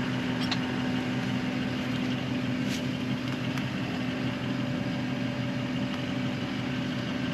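An engine idling steadily with an even hum, and a few faint clicks over it.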